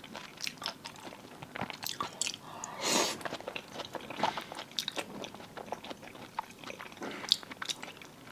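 Close-miked eating of marinated seafood: wet chewing and biting with many short, crisp crunches and clicks, and one longer, louder sound about three seconds in.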